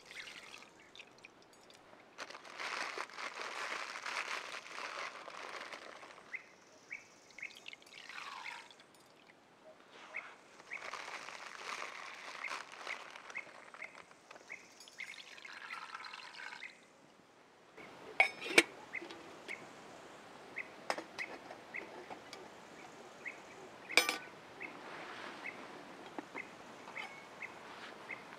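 Liquid being poured in two long pours, then a few sharp knocks, over a short chirp repeating once or twice a second.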